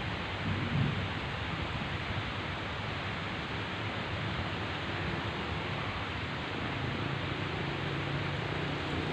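Heavy rain pouring steadily, with low thunder rumbling: a brief swell about a second in and a rumble building near the end.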